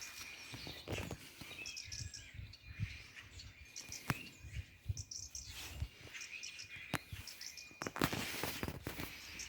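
Small birds chirping in short clusters of high notes, with a thin whistled tone now and then. A few sharp knocks and rustles break in, the loudest about eight seconds in.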